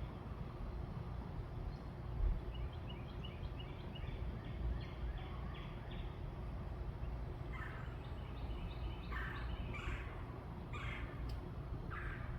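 Birds calling in a backyard: a quick run of short, high, chirping notes, then about five louder, harsher calls in the second half, over a steady low rumble.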